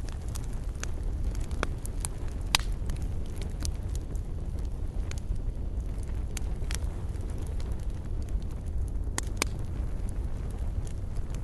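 Campfire burning, its wood crackling with scattered sharp pops over a steady low rumble; the loudest pop comes about two and a half seconds in.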